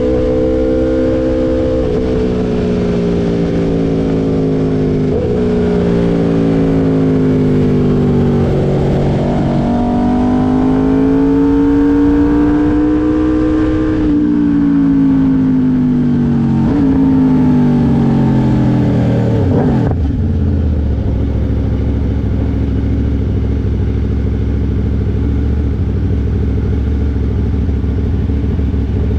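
2022 Aprilia RSV4 V4 engine through an SC Project S1 titanium exhaust, heard onboard. It pulls up through the revs with several sudden pitch drops at upshifts. Then the revs fall away with two quick blips on the downshifts, and from about two-thirds of the way through it runs at a steady low note.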